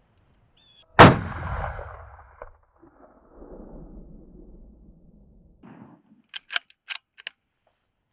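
A single rifle shot at a coyote about a second in, its report rolling away over a second or so. A quick run of sharp clicks follows near the end.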